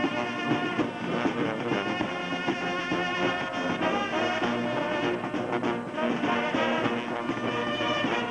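Brass band music: several horns playing a tune together over a steady beat.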